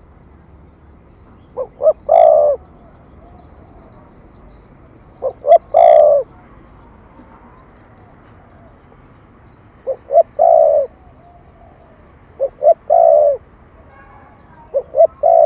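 Spotted dove cooing: five phrases, each two short notes followed by a longer drawn-out coo, repeated every few seconds.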